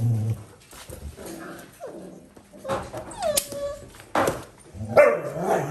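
Dalmatian puppies whining and yelping: a falling whine held briefly about three seconds in and another high whine near the end, with a few sharp knocks among them.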